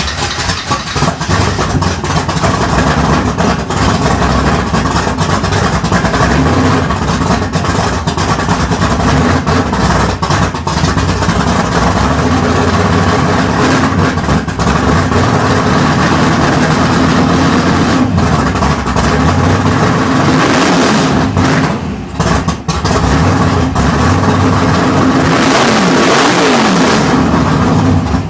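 1979 Chevrolet Camaro's 350 small-block V8 running loud just after a cold start in winter, with brief dips in level about three-quarters of the way through. The sound cuts off suddenly at the end.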